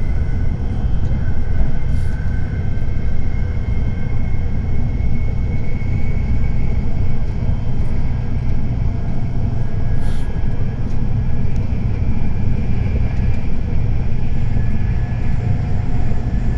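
Steady running noise inside a Tokaido Shinkansen car travelling at speed: a dense, even low rumble with a faint high whine over it.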